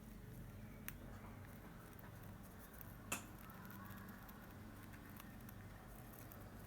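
A cockatiel nibbling and pecking at oregano leaves: faint soft rustling with two sharp beak clicks, one about a second in and a louder one about three seconds in, over a low steady hum.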